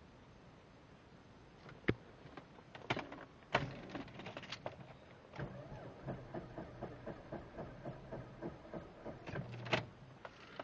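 Mercedes starter motor cranking the engine slowly without it catching, a steady rhythm of about three turns a second, with a few sharp clicks before it. The battery is weak.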